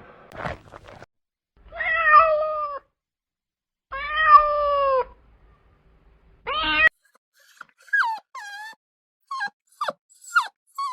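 Domestic cat meowing: three drawn-out meows that fall in pitch, followed by a quick run of shorter, higher mews.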